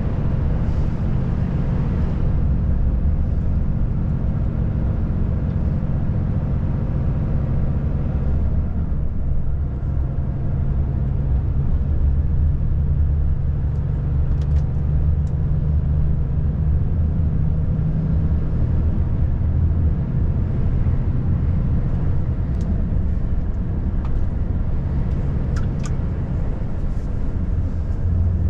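Volvo FH540 truck's 13-litre inline-six diesel running steadily under way, a continuous low drone with road noise. Its engine note shifts about nine seconds in.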